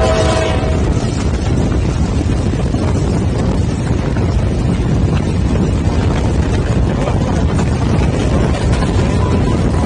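Train running at speed heard from on board: a steady loud rumble of wheels on rail mixed with wind on the microphone. A train horn's chord dies away in the first second.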